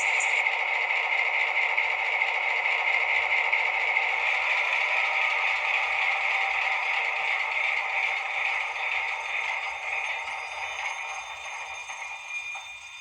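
Van Biervliet 6244 railway signalling device sounding a steady, rattling ring, which dies away over the last few seconds.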